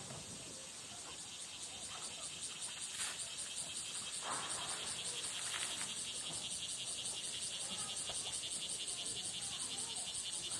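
Summer cicadas singing in a pulsing chorus, about six or seven pulses a second, growing louder over the first few seconds. A few brief rushing sounds cut through about three, four and five and a half seconds in.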